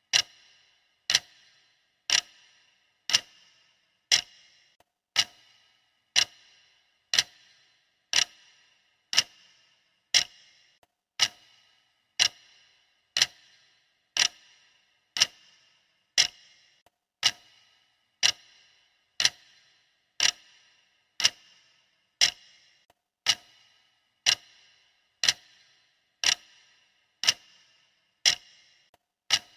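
Clock ticking steadily, one sharp tick a second, each with a short fading tail.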